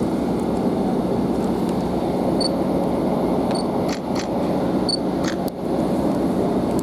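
Northern Class 150 Sprinter diesel multiple unit running, heard from inside the carriage: a steady rumble of engine and wheels with a low hum. Three faint short high beeps come a little over a second apart in the middle, with a few light clicks.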